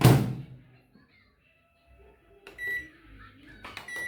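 A heavy thump right at the start, then two short, high electronic beeps, about two and a half and four seconds in, each just after a faint click, as from buttons pressed on an appliance's keypad.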